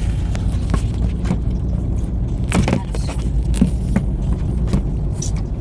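Steady low rumble of a car heard from inside the cabin, with scattered light clicks and knocks.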